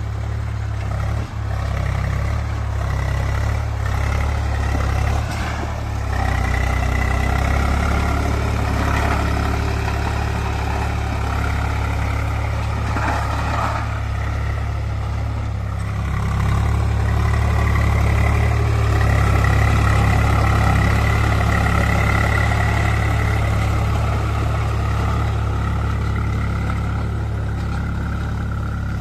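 Swaraj 735 tractor's diesel engine running steadily with a deep drone, growing louder a couple of times as it works harder.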